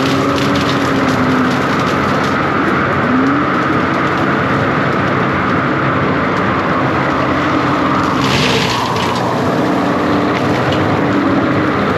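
John Deere 333G compact track loader running steadily with its hydraulic attachment working. The pitch dips and rises slightly under load, with a short rush of noise about eight seconds in.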